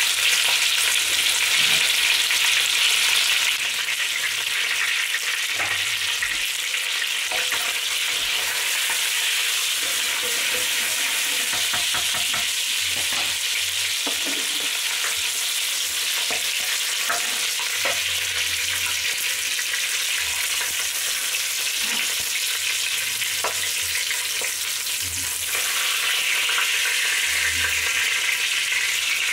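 Chicken pieces sizzling in hot oil in a large pot as they are sealed golden brown: a steady frying hiss, louder for the first few seconds and again near the end. Scattered clicks and scrapes of a slotted spoon against the pot come as the pieces are turned and lifted out.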